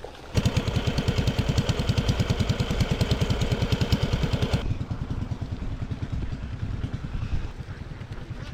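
Small engine running with a rapid, even chug, starting abruptly about a third of a second in, then dropping to a quieter, lower run after about four and a half seconds.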